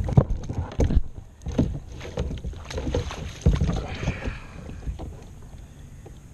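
Irregular knocks and thumps against a kayak with some water splashing, as a hooked catfish is wrestled alongside and grabbed.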